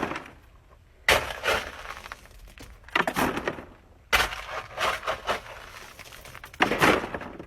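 Gravel being shoveled: the shovel crunching into loose stone and the gravel scattering as it is tossed, in four or five separate scoops a second or two apart.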